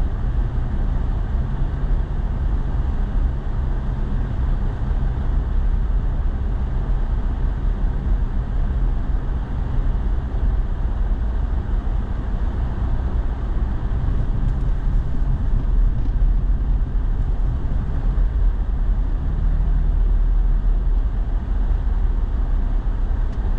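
Steady low engine hum and road rumble inside a pickup truck's cab while driving on snowy streets.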